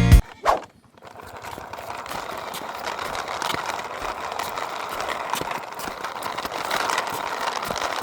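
Toy RC cars running: a steady whirring rattle of small motors and plastic wheels, dotted with small clicks, slowly growing louder.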